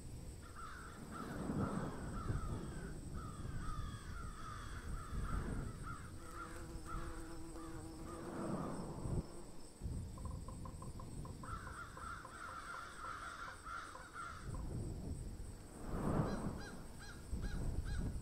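Birds calling in runs of quick repeated notes, two long bouts with a pause between, over a low rumble.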